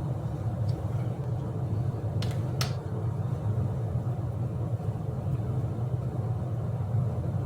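Steady low hum or rumble with no change in pitch, with two light clicks about two and a half seconds in.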